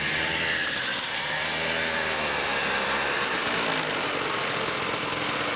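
A small engine running steadily, its pitch drifting up and down as the engine speed changes.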